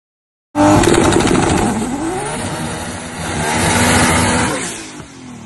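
Car engine revving, its pitch rising and falling, cutting in suddenly after a short silence and fading toward the end.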